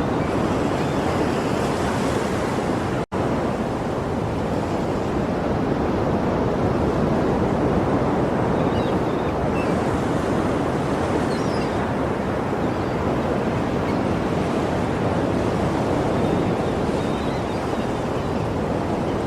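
Sea surf: waves washing steadily on the shore in an even, continuous rush, with a split-second dropout about three seconds in.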